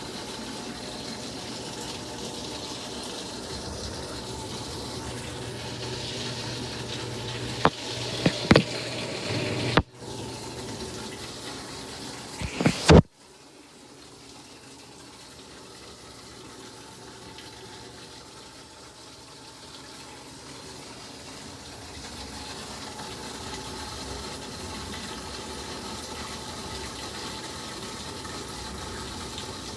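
Water running into a Samsung ActiveWaterJet washing machine as it fills. Several sharp, loud knocks come about eight seconds in and again near thirteen seconds, after which the water sound is quieter for a while before it builds up again.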